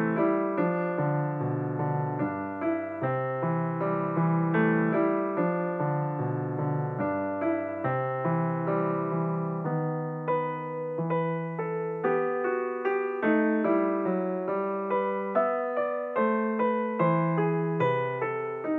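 Background music: a solo piano-like keyboard playing a steady, flowing run of notes.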